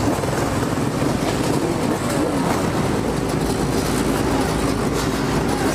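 Engines of dirt bikes and quads running steadily close by, under a loud rushing of road and wind noise.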